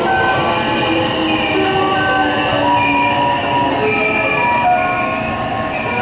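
Electric commuter train moving through the station, wheels squealing on the rails in many short, shifting high tones over a steady rumble.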